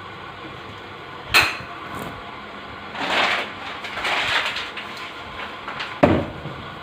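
Handling noises: a sharp knock, two stretches of scraping or rustling, then a low, heavy thud near the end.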